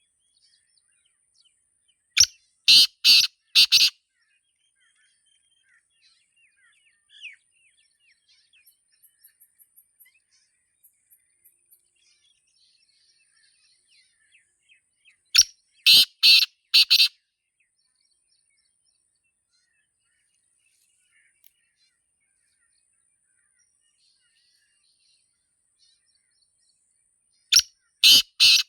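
Black francolin calling: a loud phrase of about five quick notes, given three times roughly thirteen seconds apart, the last near the end. Faint chirps of small birds come between the phrases.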